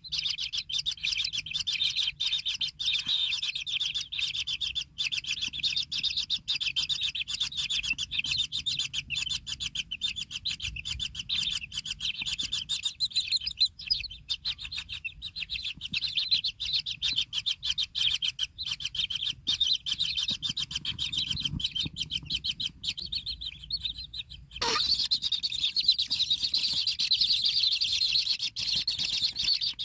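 A continuous chorus of fast, high chirps from kingfisher nestlings calling in the nest hole. About 25 seconds in there is a sharp click, and after it the chirping is louder.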